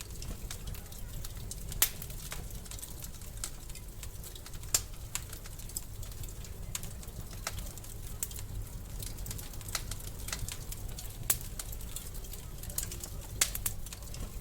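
Wood fire crackling in a fireplace: a steady low rumble with light crackles and sharp pops every few seconds, the loudest about 2, 5, 11 and 13 seconds in.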